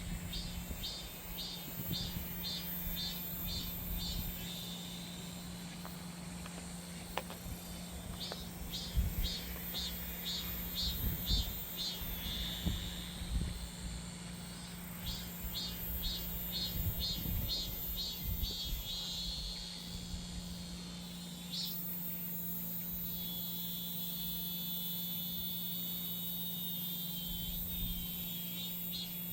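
Cicadas singing: phrases of quick, even pulses repeated many times, alternating with stretches of steadier buzzing, over a faint steady low hum.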